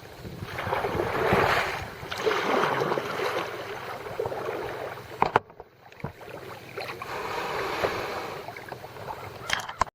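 Water sloshing and splashing around a kayak in swells a second or two long, with a sharp knock about halfway through and a few more knocks just before the sound cuts off.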